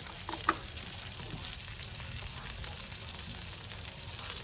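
Smash burger patties sizzling on a hot cooking surface: a steady frying hiss, with a few light clicks in the first half-second.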